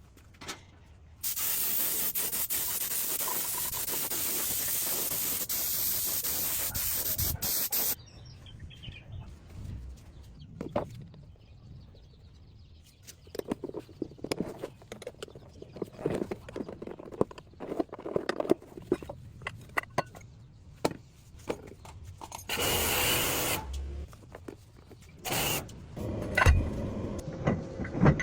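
Steady spray hiss in two long bursts, one lasting about seven seconds and a shorter one near the end, with scattered scraping and clicking of parts being handled in between.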